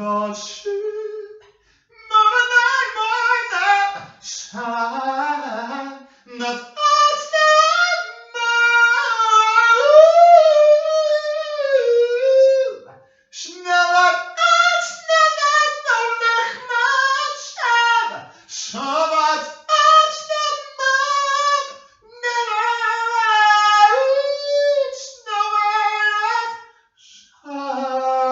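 A voice singing alone without accompaniment, in phrases of held notes that slide in pitch, with short pauses for breath between phrases.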